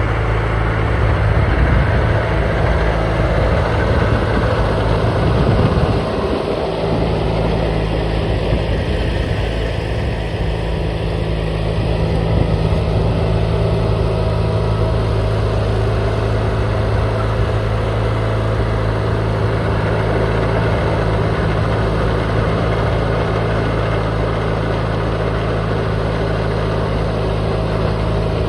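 John Deere 420 garden tractor's engine running steadily at a constant speed while snowblowing, with the blower running along with it. There is a brief dip in the sound about six seconds in.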